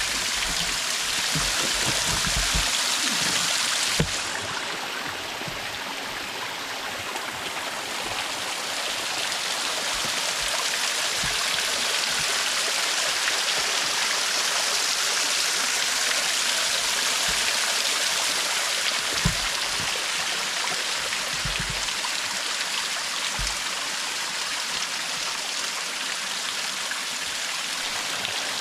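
Small woodland creek waterfall: water pouring and splashing in a steady rush, with a short click and a brief dip about four seconds in.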